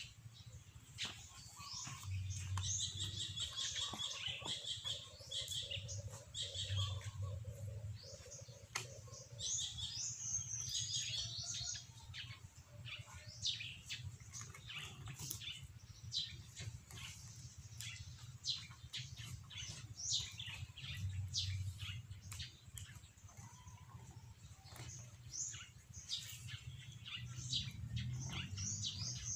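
Small birds chirping and twittering in quick, repeated high calls, with a faint low hum underneath.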